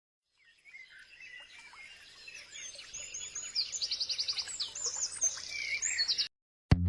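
Several birds chirping and singing together, with whistled notes and quick trills, fading in and growing louder before cutting off suddenly about six seconds in.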